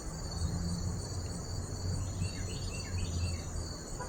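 A steady high insect chorus, crickets, with a series of short falling bird chirps about halfway through, over a low rumble.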